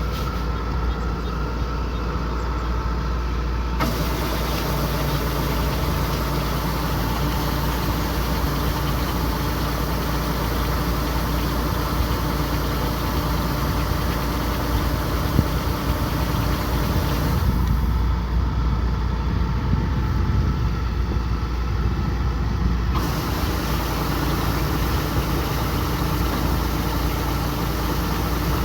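Kubota combine harvester running with a steady engine and machinery drone. The sound changes abruptly about four seconds in, and again for a stretch in the second half.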